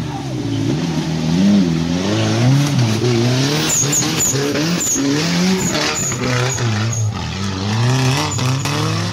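Small Suzuki 4x4's engine revving hard, its pitch repeatedly rising and falling as the vehicle works under load up a muddy off-road climb, with scattered sharp knocks.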